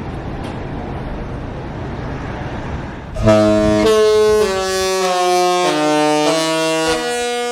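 A steady low rumble, then about three seconds in a cruise ship's musical horn starts playing a slow tune of long held notes that step up and down in pitch.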